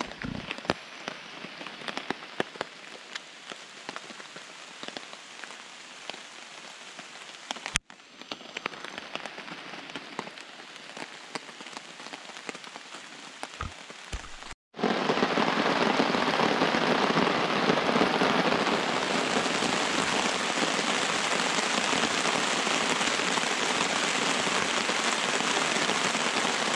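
Rain falling on a camp tarp, many separate drops hitting it over a soft hiss. About fifteen seconds in, after a brief break, the rain is much louder and runs as a steady, even hiss.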